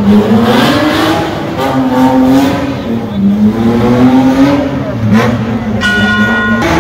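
Car engine revving hard over and over, its pitch climbing and dropping in long sweeps. A short steady high-pitched tone sounds just before the end.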